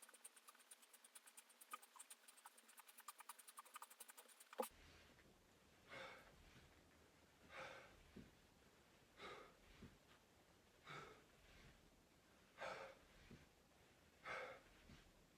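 Rapid faint ticking for the first four and a half seconds, ending in a sharp click. Then a person's rhythmic exercise breathing, one breath about every second and a half to two seconds.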